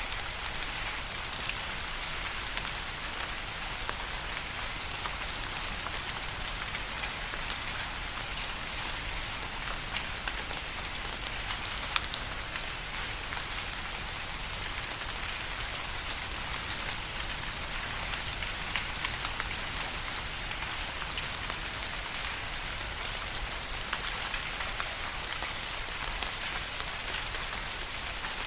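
Steady rain falling, an even hiss with many distinct drop ticks striking a surface throughout.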